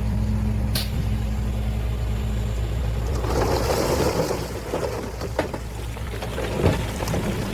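Heavy earthmoving equipment's diesel engine running steadily, with a rushing, rattling noise rising about three seconds in and fading a couple of seconds later, and a few sharp knocks.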